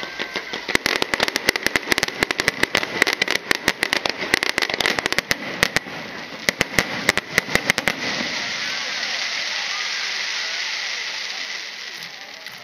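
Aerial fireworks going off in a rapid volley of sharp bangs for about eight seconds, then a steady hiss that fades near the end.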